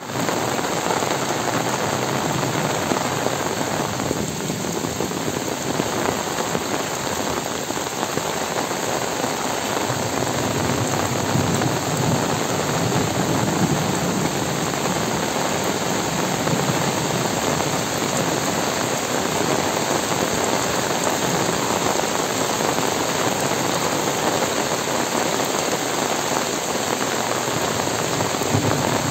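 Heavy rain falling steadily on trees, leaves and a muddy dirt path: a dense, even hiss of countless drops that keeps the same level throughout.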